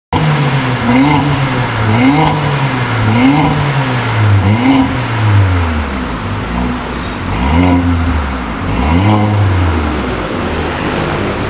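Mercedes-Benz A45 AMG's turbocharged 2.0-litre four-cylinder revving again and again in quick blips through a 3.5-inch downpipe and high-flow sports catalytic converter, the pitch climbing and falling about once a second.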